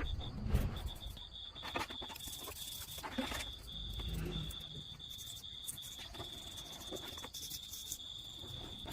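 A steady, high, pulsing trill like an insect chirping, with scattered clicks and a few soft low knocks in the first half.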